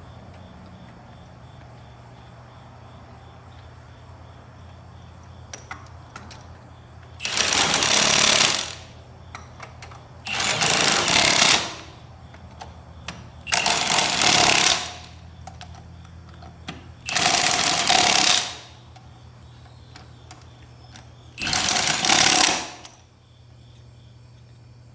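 Pneumatic impact wrench run in five short bursts, each about a second and a quarter long and a few seconds apart, as when driving a wheel's lug nuts.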